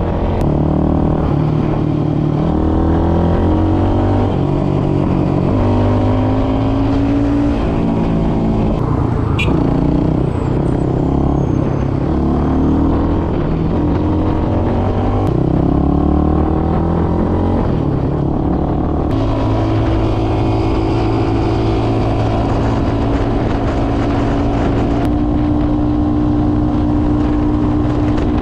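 Motoland Legend motorcycle engine under way, revving up and dropping back again and again as it shifts through the gears, then holding a steady pitch for the last third.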